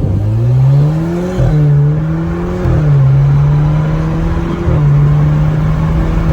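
Alfa Romeo Giulia with its muffler and resonator deleted, accelerating hard through the gears. The exhaust note rises with revs and drops sharply at each upshift, about four shifts in quick succession.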